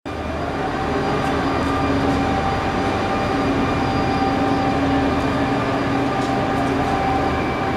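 Regional train standing at the platform with its onboard equipment running: a steady hum of several held tones over a broad rumble.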